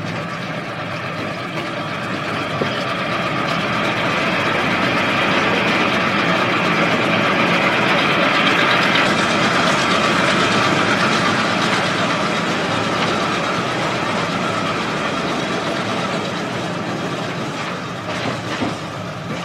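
Passenger train behind a diesel-electric locomotive running on the rails: a steady rumble and clatter of wheels and cars that swells louder through the middle and eases off toward the end.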